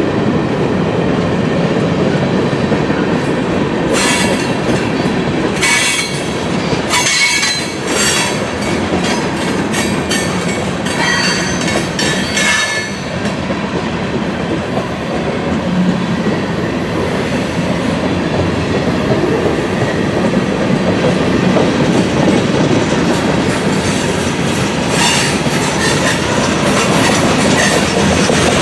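Freight train cars rolling past, their wheels clacking over the rails, with bursts of high-pitched wheel squeal in the first half and again near the end.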